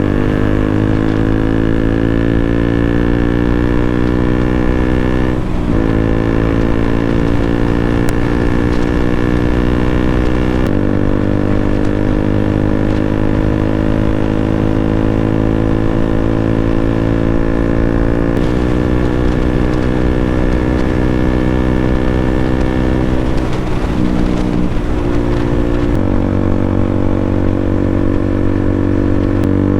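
KTM RC 200 single-cylinder engine breathing through an aftermarket Akrapovic exhaust, riding under load. The pitch climbs slowly and steps several times as gears change, then rises quickly near the end.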